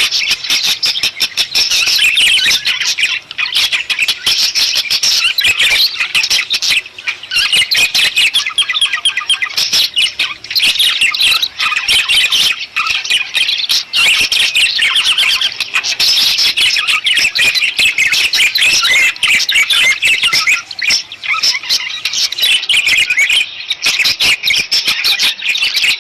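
Budgerigars chattering and warbling continuously, with many overlapping chirps and squawks.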